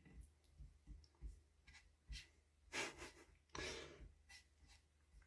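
Near silence: room tone with a few faint short clicks and two soft noisy swells near the middle.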